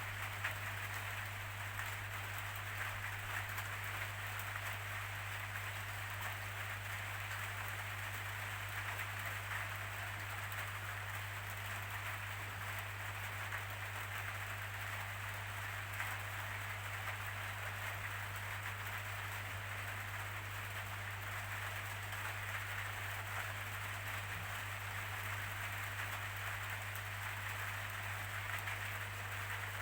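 Steady rainfall, an even hiss of drops with no breaks or changes, over a constant low hum.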